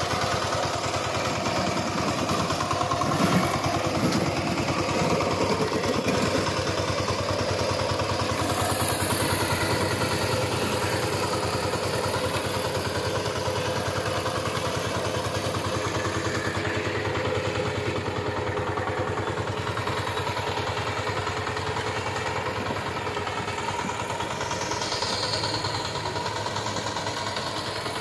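VST Shakti power tiller's single-cylinder diesel engine running steadily with a fast, even chugging beat. A brief louder clatter comes about three seconds in.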